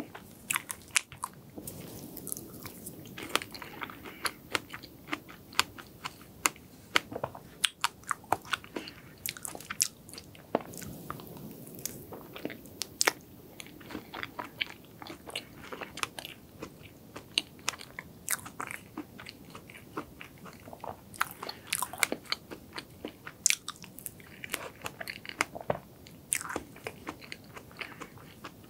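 Close-miked chewing of cake, with frequent sharp clicks and smacks throughout.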